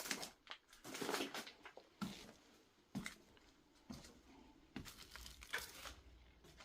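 Loose paper files crinkling and rustling in several quiet, irregular bursts, with small clicks among them.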